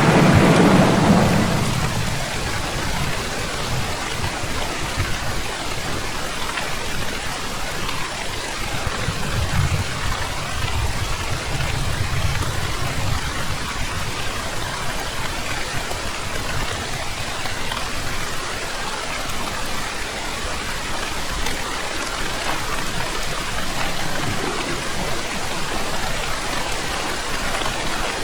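Steady heavy rain with thunder: a loud rumble fades away over the first two seconds, and a softer, low rumble comes about ten seconds in.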